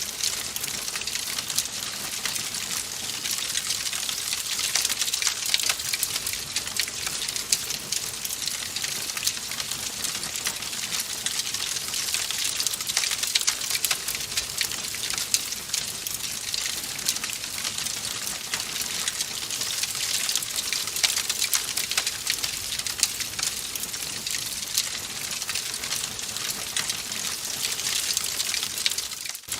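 Wood fire in a fireplace crackling, a dense steady run of small pops and snaps over a hiss. The sound briefly drops out near the end.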